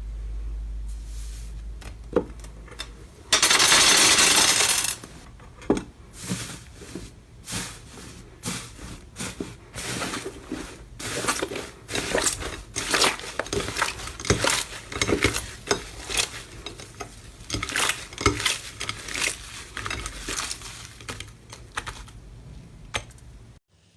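Slime being worked by hand, making a dense, irregular run of small clicks and pops. A loud crackling rush lasts nearly two seconds a few seconds in.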